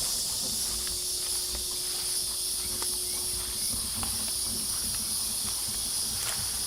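Steady, high-pitched chorus of insects buzzing outdoors, with a few soft footsteps underneath.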